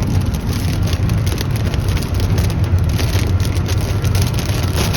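Car driving in rain, heard from inside the cabin: a steady low road and engine rumble with raindrops ticking irregularly on the roof and windshield.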